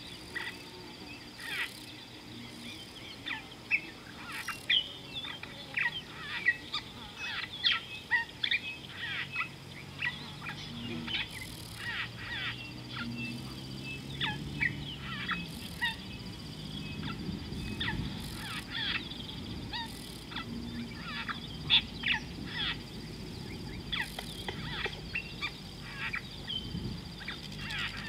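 Wild birds calling at a waterhole: many short, sharp chirps and calls, over a steady high-pitched drone. A faint low hum comes and goes in the middle.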